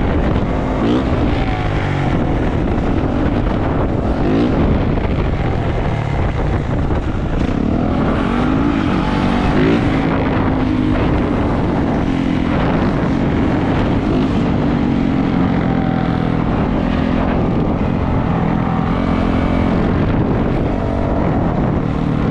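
450cc four-stroke dirt bike engine running under way, its pitch rising and falling as the throttle opens and closes.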